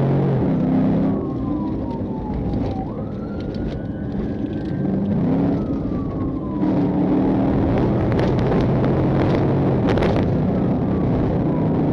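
Police patrol car in pursuit: its siren wails in slow falling and rising sweeps over its engine, which revs hard and climbs in pitch through the gears.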